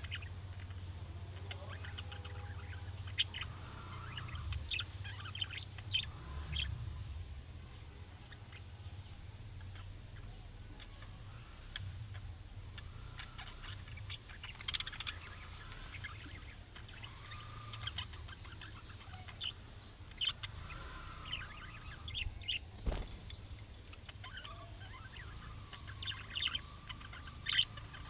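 Budgerigars chattering, with short scattered chirps and warbling calls over a low steady hum. One sharp click comes late on.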